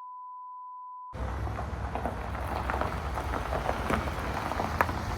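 A steady 1 kHz beep tone that cuts off about a second in, then a campfire burning, with an even crackle, a low rumble and scattered sharp pops.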